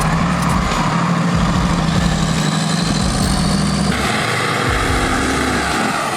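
Heavy truck engine running steadily; about four seconds in, the low engine note drops away and a broader hiss takes over.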